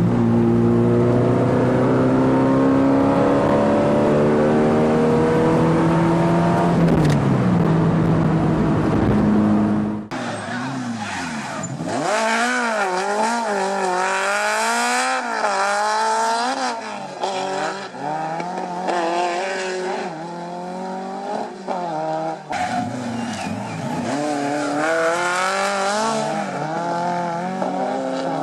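Four-cylinder car engine pulling steadily with its pitch slowly climbing, then after a cut revving hard up and down in quick swings. Another cut comes near the end.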